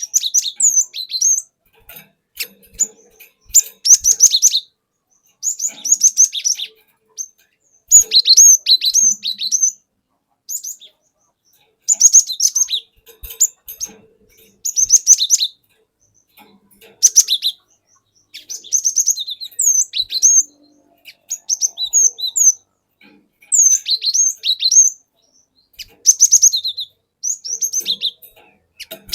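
Cinereous tit (gelatik batu) singing: repeated short phrases of quick, high, sharp whistled notes, each phrase a second or so long with brief pauses between.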